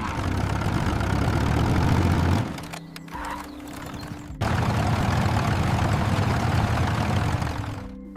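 Cartoon engine sound effect running in two stretches. The first fades out after about two seconds; the second starts suddenly about four seconds in and fades near the end.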